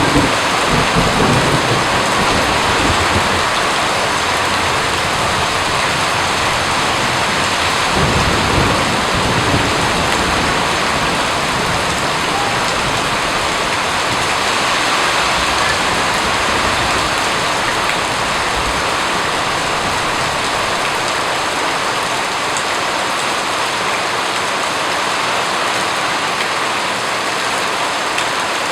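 Steady, dense rain falling, with thunder rumbling low in the first few seconds and again about eight seconds in.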